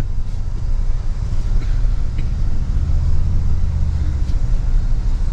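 Toyota Tundra pickup crawling over a rough off-road trail, heard from inside the cab: a steady low engine and drivetrain rumble that grows a little fuller about halfway through, with a few faint knocks.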